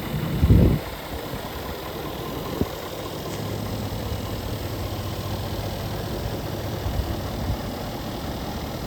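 Scania G450 truck's 13-litre six-cylinder diesel engine idling steadily. A heavy low thump sounds about half a second in, and a steady low hum sets in about three and a half seconds in.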